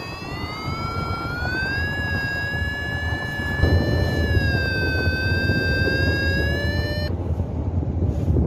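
Paragliding variometer's continuous sink-alarm tone, which signals a fast descent. Its pitch drifts slowly down and up over wind rumbling on the microphone, and the tone cuts off about seven seconds in.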